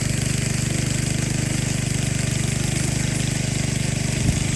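An engine running steadily at idle, a low even hum with a fast pulse, and a single short knock about four seconds in.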